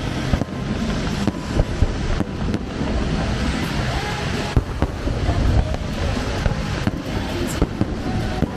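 Fireworks going off in a dense, irregular barrage of overlapping bangs and crackles.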